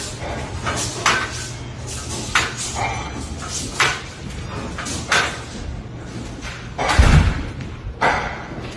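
Doors and cupboards rattling and banging in a building shaken by an earthquake. There are repeated knocks about every second and a half over a low rumble, with the heaviest jolt about seven seconds in.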